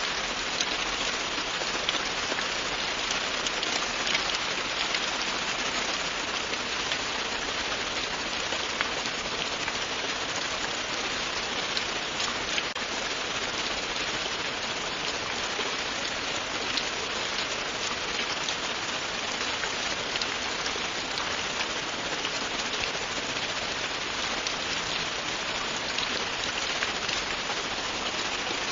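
Steady, continuous rain falling and pattering on a surface, with many fine drop ticks and no breaks.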